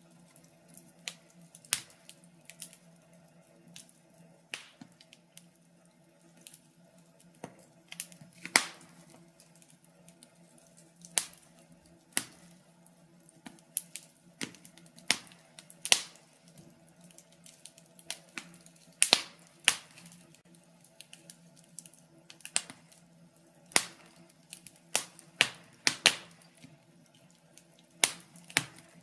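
Wood fire in a fireplace crackling: irregular sharp pops and snaps, several loud ones standing out, over a faint steady low hum.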